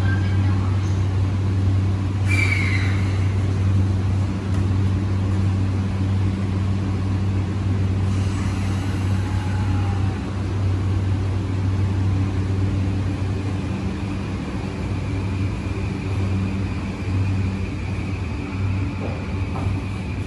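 E235 series electric train standing at the platform with a steady low hum from its equipment. About two seconds in comes a short loud burst, as the doors shut. A faint steady high whine joins from about twelve seconds on.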